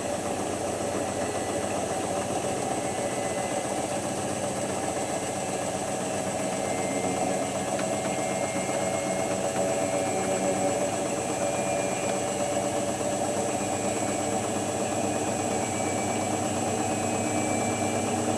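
Hotpoint HF8B593 washing machine on its spin, the drum motor running with a steady hum and whine that grows slightly louder.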